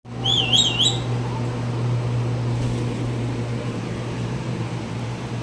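Pet parrot giving a short warbling whistle with three quick rises and falls in the first second, over a steady low hum.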